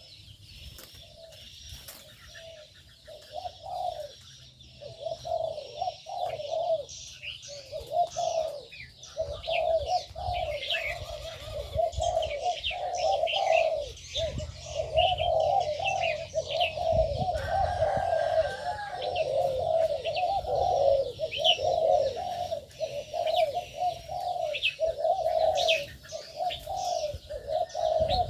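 Doves cooing over and over in low rolling phrases, with small birds chirping and twittering at a higher pitch over them.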